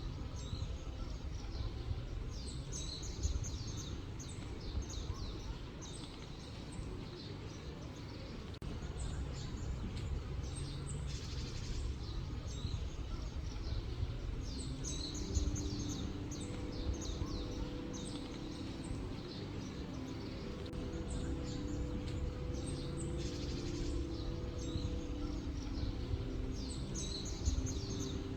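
Small birds chirping repeatedly in short calls over a steady low rumble of outdoor ambience; a faint steady hum joins about halfway through.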